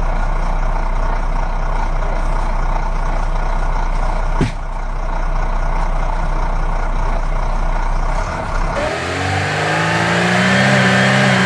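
Vehicle engine running steadily with a deep hum and a single sharp click midway. Near the end a second engine takes over, revving up with rising pitch.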